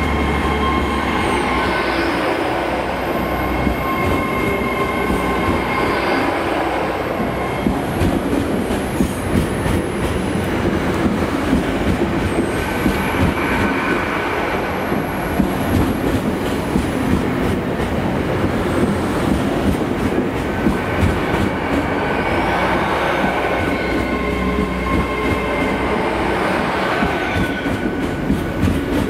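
Great Western Railway Hitachi Class 800-series train moving along the platform, its wheels clicking over rail joints under a steady running hum with high whining tones. The whine rises and falls twice, once in the first several seconds and again in the last several.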